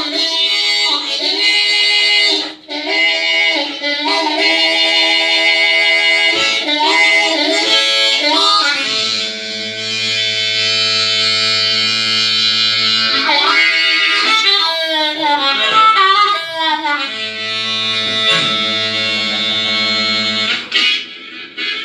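Blues harmonica playing a railroad blues: held chords and riffs, with a run of bent, wailing notes about two-thirds of the way through.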